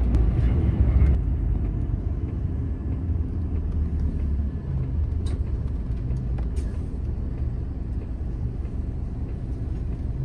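Airport apron shuttle bus driving, its engine and road noise a steady low rumble heard from inside the passenger cabin, easing a little about a second in.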